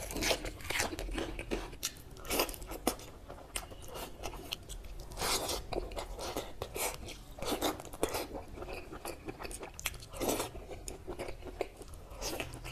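Close-miked eating: bites and chewing of fried brinjal and mutton curry eaten by hand, crunching in irregular bursts.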